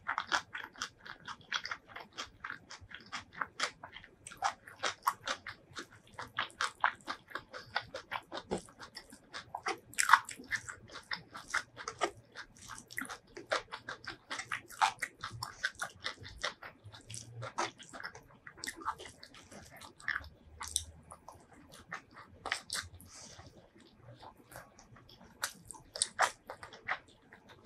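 Close-miked chewing of curried boiled egg and rice eaten by hand: a quick, even run of mouth clicks and crunches, several a second.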